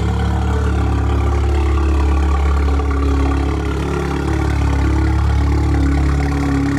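Vehicle engine idling steadily, fresh from a cold start, with a deep even tone.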